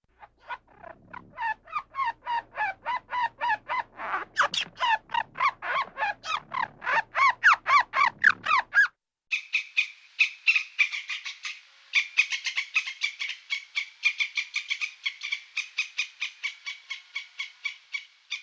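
A rapid run of short animal calls, several a second, each with a quick pitch sweep. About halfway through it cuts to a different, higher and faster series of calls.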